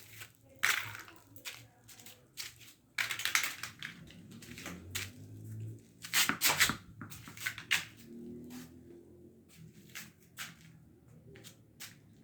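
A cat chewing something crunchy, with irregular crunches and small clicks, heavier around the middle.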